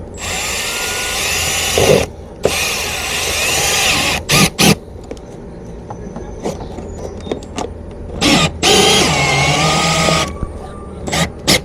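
Cordless drill running in three bursts of about two seconds each, the pitch wavering under load as it drives screws, with a few short sharp knocks in between.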